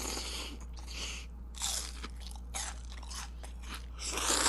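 Close-miked mukbang eating: a person biting and chewing crunchy food, several separate crunches with the loudest near the end.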